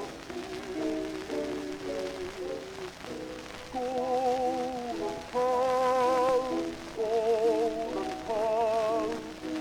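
Orchestral passage played from a 78 rpm gramophone record: a melody with vibrato over sustained accompanying chords, with steady crackle and hiss of record surface noise underneath.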